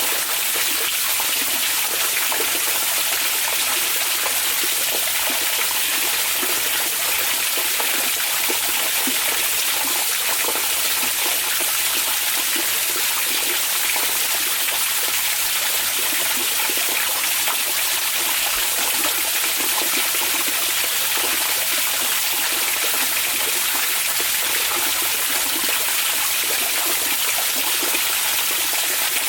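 Hot spring water running steadily into an onsen bath, an even, unbroken rush of water with no changes.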